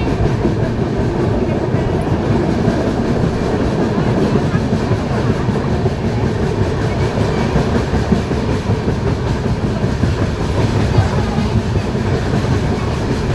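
Passenger train running at speed, a steady loud rumble with wheels clattering over the rail joints.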